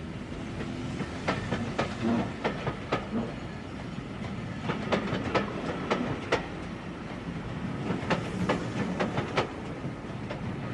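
Electric train running along the track: a steady rumble with sharp clicks in clusters as the wheels pass over rail joints.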